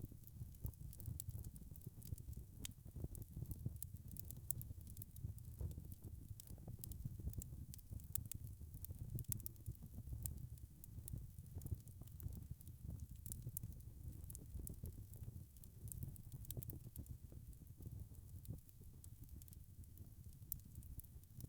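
Log fire crackling: a dense, irregular run of small sharp pops and snaps over a steady low rumble of burning wood.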